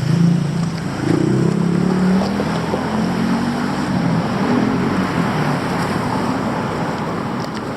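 Street traffic: a vehicle engine running close by, its pitch rising and falling, over a steady wash of traffic noise.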